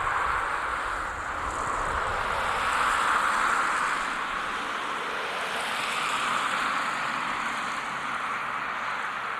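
Boeing 757-200F freighter's jet engines running, a steady rushing whine that swells and eases slowly.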